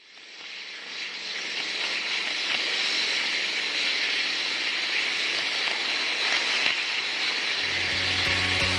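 N-gauge model train running on the layout's track, a steady high rolling hiss that fades up over the first second. Low steady tones of background music come in near the end.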